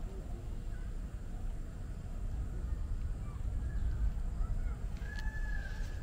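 Scattered faint bird chirps over a steady low rumble, with one louder bird call near the end that rises and falls in pitch over about a second.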